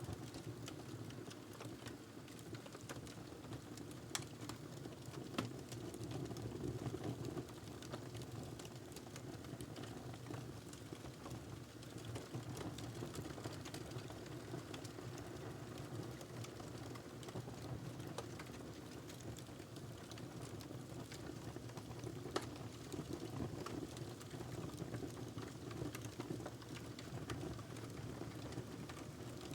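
Wood fire crackling in a fireplace: a steady low rumble of burning with frequent small crackles, and two sharper pops, about five seconds in and past the twenty-second mark.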